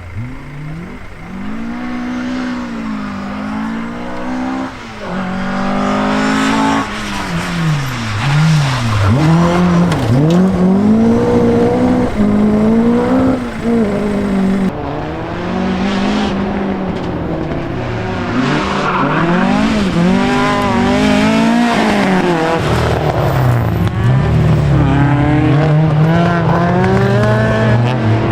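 A rally car's engine revving hard, its pitch climbing and dropping again and again as it accelerates and shifts, with sharp cracks and pops among the revs. It grows louder over the first several seconds as the car comes closer.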